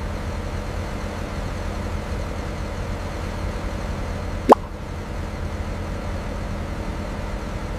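Steady low engine rumble of heavy machinery running, with one short, sharp rising pop about four and a half seconds in.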